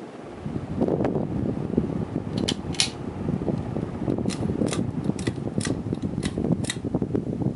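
1994 Hampton Bay Portsmouth ceiling fan, made by Halsey, running with a steady rushing noise. Sharp clicks come about twice a second through the middle and latter part.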